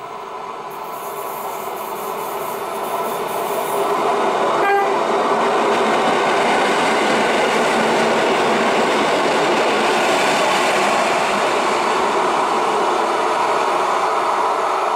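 EN57 electric multiple unit running through a station at speed. Its wheels and running gear grow louder over the first few seconds as it approaches, then stay loud as it passes close by. A very short horn toot sounds about five seconds in.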